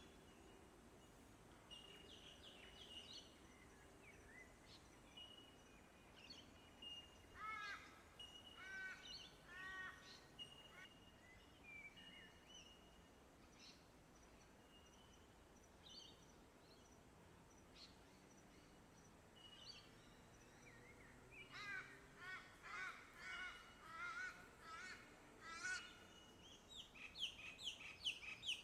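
Several wild birds calling and singing, faint against a quiet background: repeated short whistled notes, with rapid runs of chirps a few seconds in and again through the last third.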